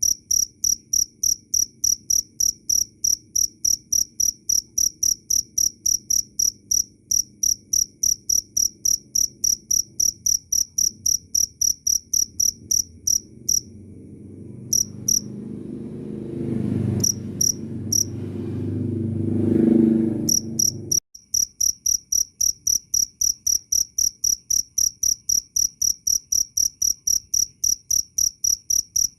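Field cricket chirping steadily, about three high chirps a second. About halfway through the chirps break off and a low rumble swells up for several seconds, louder than the chirps, then cuts off suddenly as the steady chirping resumes.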